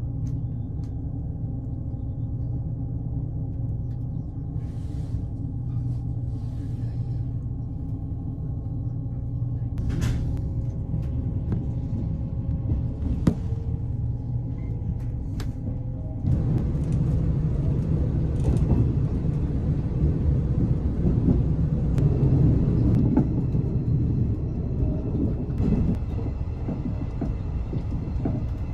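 Cabin noise inside a moving Series 381 limited express train: a steady low rumble with a few sharp clicks. About halfway through it turns louder and rougher.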